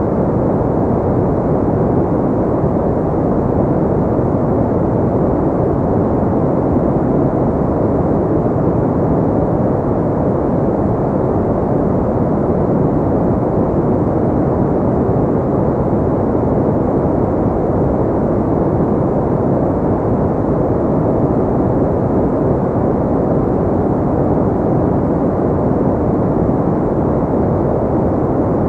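Steady pink noise: an even, unchanging muffled hiss with most of its weight in the lows and mids and little treble.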